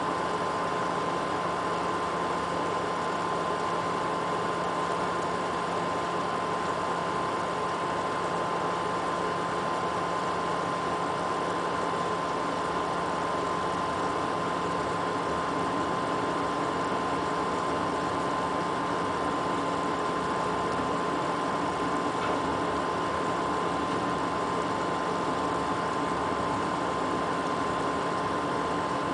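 XSPC water-cooling pump running in a PC loop with a steady high-pitched whine over a constant hum and hiss. The odd noise comes from the pump's tubes being connected to the wrong ports.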